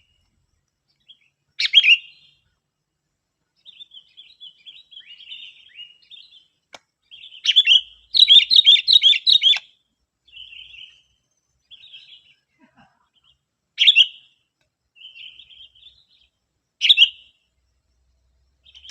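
Sooty-headed bulbul (kutilang) calling: a few loud, short chirps spaced several seconds apart, a fast run of rapid chirps near the middle, and soft twittering in between.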